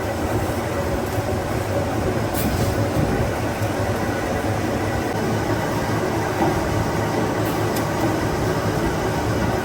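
Factory machinery running steadily, a dense continuous mechanical noise with a couple of faint ticks.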